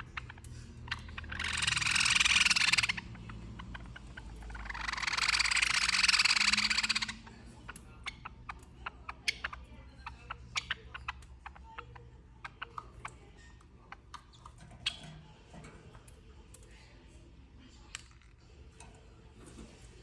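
Hungry bird giving two long, harsh, rasping begging calls that swell in loudness, followed by a scatter of sharp clicks and taps.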